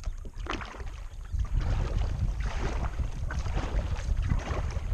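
Kayak paddle strokes dipping and splashing in open lake water about once a second, with wind buffeting the microphone as a low rumble that grows stronger about a second and a half in.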